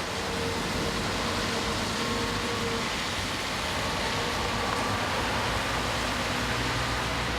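Steady rain with the hiss and hum of cars on a wet road.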